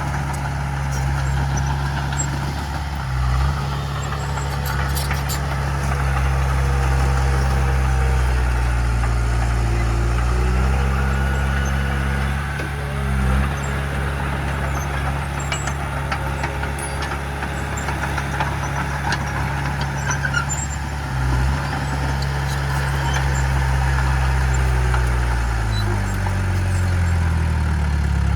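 Heavy diesel engine of earthmoving machinery running, its pitch dipping and rising several times as it works, with a few faint clicks about five seconds in.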